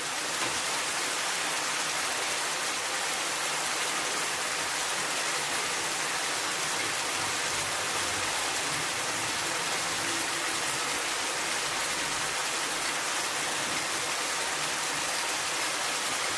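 Chicken cubes sizzling in a frying pan in their own spiced juices, a steady hiss as the liquid cooks down.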